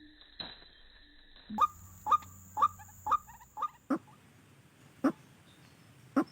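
A bird giving short, sharp calls, about two a second for a couple of seconds, then two more spaced further apart.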